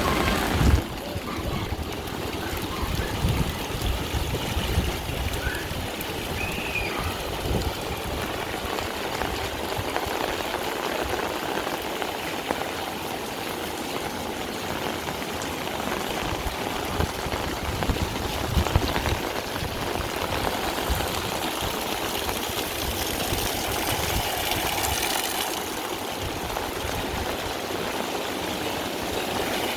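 Heavy rain falling steadily, with water streaming and pouring, and a sharp low thump about a second in.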